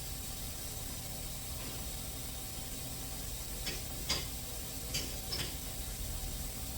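Steady hiss from a coolant refilling machine drawing coolant into a car's cooling system, with four light clicks in the second half.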